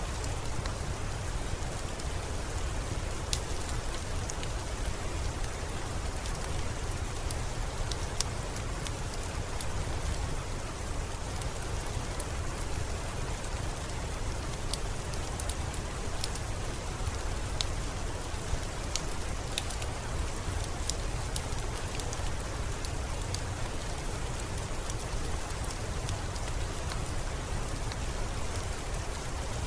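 Steady rainfall, an even hiss with a low rumble underneath and scattered sharp ticks of individual drops.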